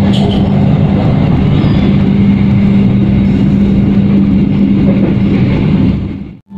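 Passenger train running at speed, heard from inside the coach: a steady rumble with a constant hum underneath. It fades out quickly near the end.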